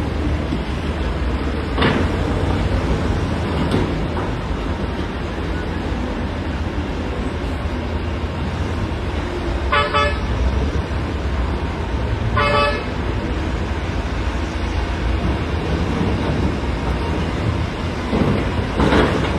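Heavy diesel earthmoving machinery running steadily, with two short horn toots about two and a half seconds apart midway through, and a few sharp knocks or clatters, the loudest near the end.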